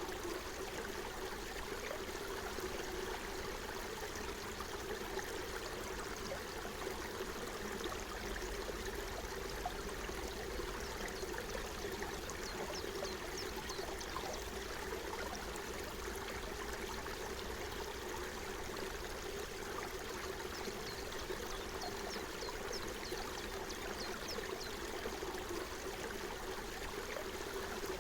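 Forest stream flowing steadily, a continuous babble of running water.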